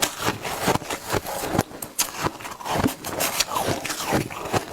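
A person biting and chewing shaved ice: many sharp, irregular crunches, several a second.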